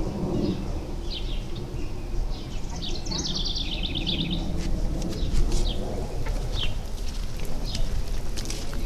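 Songbirds chirping outdoors, with short high calls every second or so and a rapid trill about three seconds in, over a low steady rumble.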